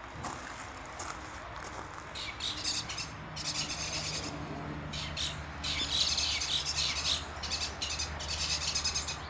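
Small birds chirping and twittering in quick, dense bursts that start about two seconds in and grow busier toward the end, over a steady low hum.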